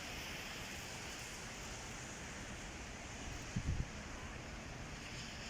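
Steady hiss of falling rain, with a few low thumps about three and a half seconds in.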